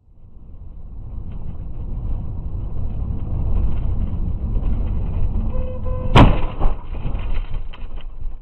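Steady low road and engine rumble of a moving car heard on a dashcam, with one sharp bang about six seconds in, the sound of a vehicle collision.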